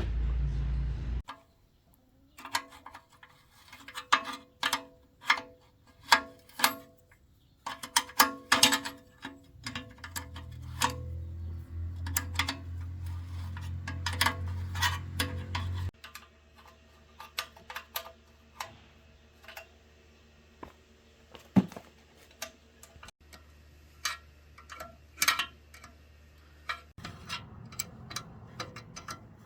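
Irregular metallic clicks, taps and clinks of hand work on metal parts, some leaving a short ringing, with a low steady hum for several seconds in the middle.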